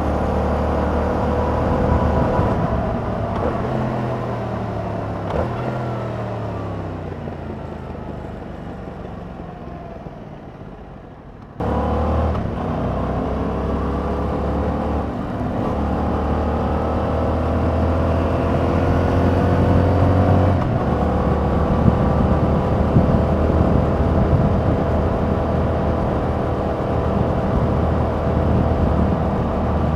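Yamaha MT-07's 689 cc parallel-twin engine through its stock exhaust while riding: revs fall away and the sound fades as the bike slows. Just before halfway it cuts suddenly back to full loudness, and the engine pulls up through the gears with its pitch climbing, with shifts about halfway and two-thirds of the way through, before running on under steady throttle.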